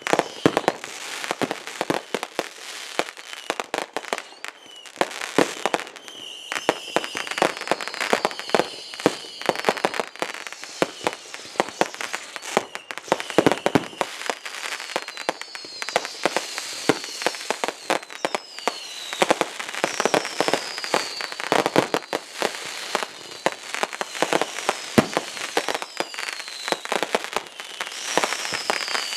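Consumer fireworks going off continuously: dense rapid crackling and popping, with short falling whistles recurring every second or two.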